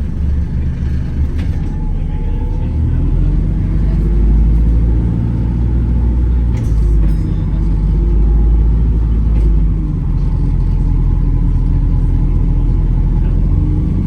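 Hybrid double-decker bus in motion, heard from on board: a steady low rumble with a droning tone that rises and falls slightly as the drive changes speed.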